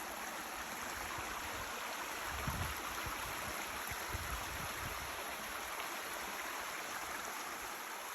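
Creek water rushing over rocks, a steady even rush. A few brief low thumps come about two and a half and four seconds in.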